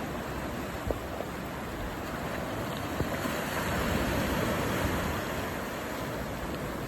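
Stormy sea surf and wind, a steady rush that swells about halfway through. Two short knocks, about a second in and about three seconds in.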